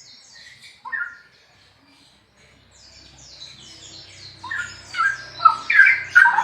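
Straw-headed bulbul (cucak rowo) singing loudly: a short whistled phrase about a second in, then a rich run of loud whistled notes over the last two seconds. Rapid high thin chirps continue throughout.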